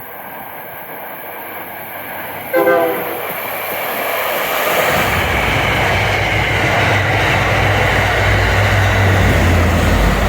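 Passenger train approaching and passing close by: a short horn blast about two and a half seconds in, then the loud rumble and rail noise of the train going by.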